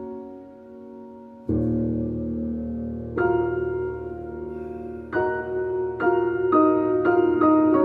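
Background piano music: slow sustained chords, with a low bass note entering about one and a half seconds in and the notes coming quicker in the last couple of seconds.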